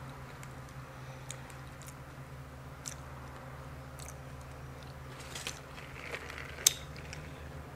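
Faint chewing and mouth sounds picked up close by a clip-on microphone, with scattered small clicks over a steady low hum; one sharper click about six and a half seconds in.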